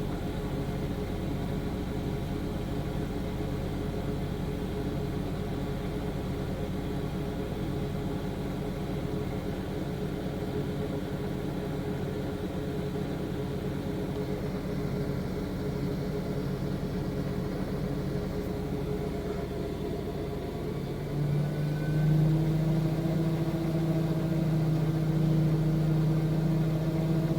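V-Zug Adora washing machine running with a steady motor hum, which about three-quarters of the way through steps up to a louder, higher hum.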